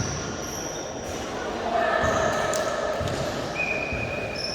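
Indoor volleyball play: several short, high squeaks of sneakers on a hard court floor, with a murmur of players' voices and a few faint knocks echoing in a large hall.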